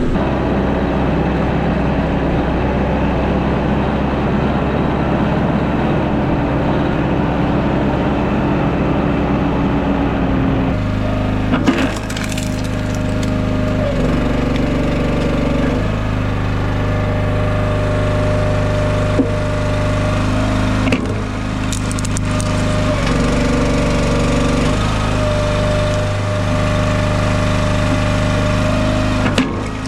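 A vehicle engine runs for the first ten seconds or so. Then a small-engine hydraulic log splitter runs, its engine note dropping and recovering several times as it takes the load of splitting, with sharp cracks of firewood splitting.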